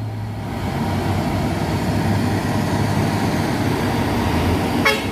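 Truck engine running steadily on a hill climb, with a short, brief pitched sound near the end.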